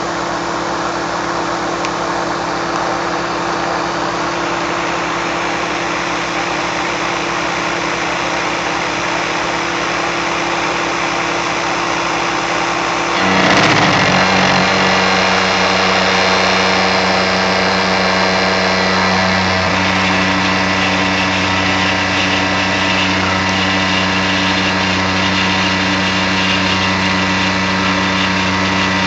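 Tormach 770 CNC mill cutting steel with a half-inch three-flute solid carbide end mill at 2000 rpm, a steady machining whine and hum. About halfway through the pitch dips briefly, then the sound settles onto a new steady hum, a little louder.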